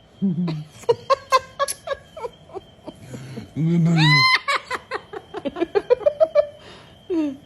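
Laughter: a rapid run of short, staccato pitched bursts, with a longer high call and a lower voice sounding together about four seconds in.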